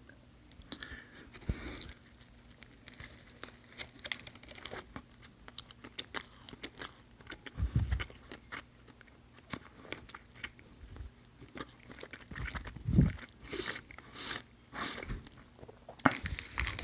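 A person biting into and chewing a Whopper hamburger close to the microphone: irregular wet crunching and mouth sounds, with a couple of low thumps about eight and thirteen seconds in.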